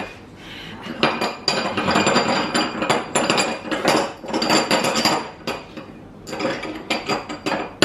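Dishes and cutlery clattering and clinking in quick, irregular knocks, in two long spells with a short lull between.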